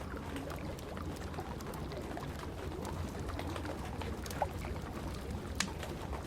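Wood fire in a fireplace crackling, with scattered sharp pops; the two loudest come about four and a half and five and a half seconds in. Under it runs a steady low rumbling wash of rain.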